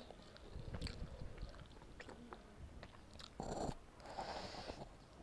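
Close-miked chewing and wet mouth sounds of someone eating instant noodles, with small clicks and smacks throughout and a louder short burst about three and a half seconds in.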